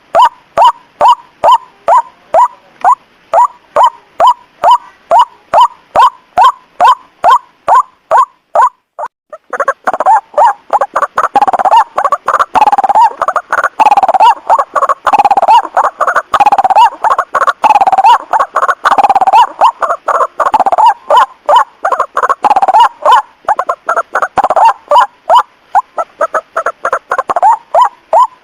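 White-breasted waterhen calls: a rapid, even run of short repeated notes, about two and a half a second. After a brief break about nine seconds in, the calls resume denser and louder, overlapping in a busy chorus.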